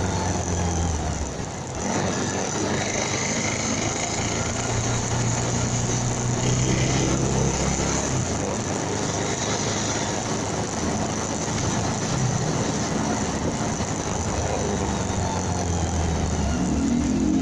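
Motorcycle engine running on the move, its low hum shifting a little in pitch, under steady wind and road noise.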